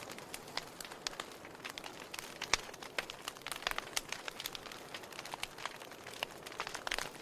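Burning firewood crackling: irregular sharp pops and snaps over a soft steady hiss, with one louder pop about two and a half seconds in.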